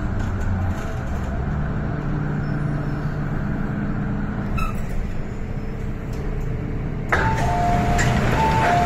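MTR M-train electric multiple unit slowing into a station, with a steady rumble and a low drone from the running gear. About seven seconds in the noise rises suddenly and an onboard two-note high-low chime sounds twice.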